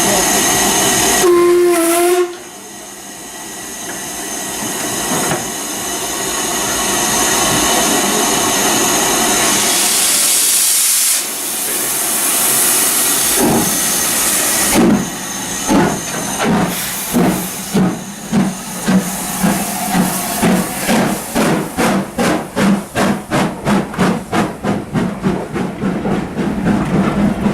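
Steam locomotive pulling away: a short whistle about two seconds in, a long hiss of steam, then exhaust beats that start slowly about halfway through and quicken to about three a second as it picks up speed.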